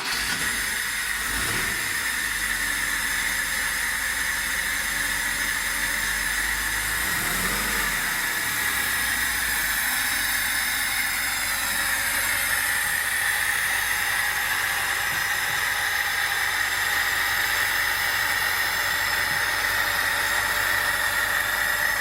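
Lada VAZ-21011 1.3-litre four-cylinder engine idling steadily just after starting, its valve clearances freshly set to 0.15 mm. It runs without the valve-train knock.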